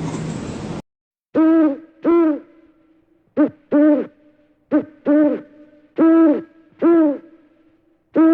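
Owl hooting: short, pitched hoots that rise and fall, given in pairs, about four pairs. Less than a second in, a noisy animal sound from before cuts off abruptly just before the hooting begins.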